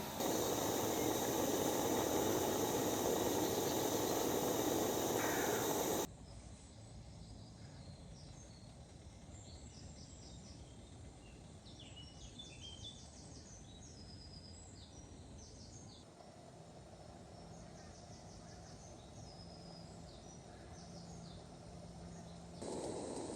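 Woodland birds chirping and singing over quiet outdoor ambience. A loud, steady rushing noise fills the first six seconds and cuts off abruptly, and a louder noise returns just before the end.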